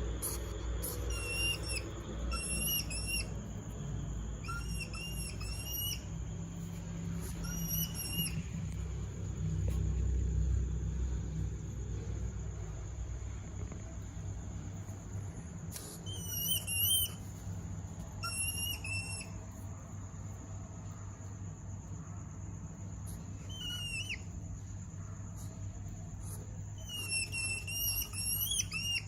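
African pygmy hedgehog making its bird-like mating chirps: short, high whistled chirps in quick clusters of two to four, recurring every few seconds and thickest near the end.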